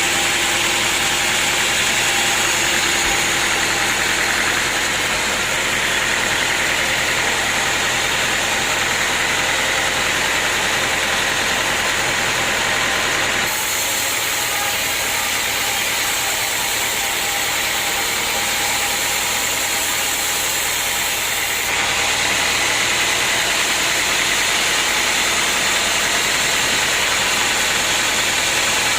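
Sawmill machinery running steadily: an engine's drone under a loud hiss. The sound changes abruptly twice, about halfway through and again later.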